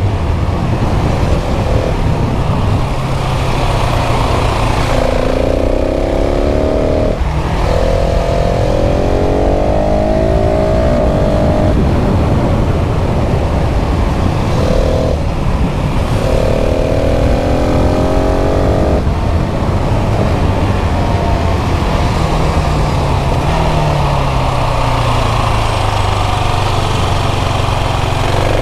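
KTM 690 SMC R's single-cylinder engine accelerating hard, its pitch climbing in several pulls broken by short gaps at the upshifts, with wind rushing past.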